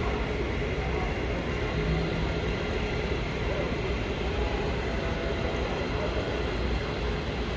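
Steady background din of a busy train show hall: a low, even rumble mixed with indistinct crowd chatter, with no single sound standing out.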